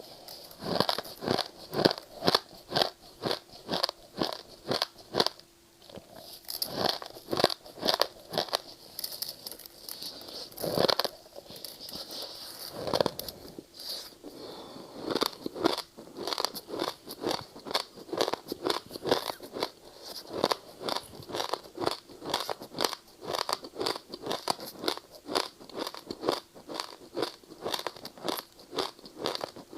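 Close-up crunching of ice being bitten and chewed: rapid, repeated crunches, about two or three a second, with short pauses between bites.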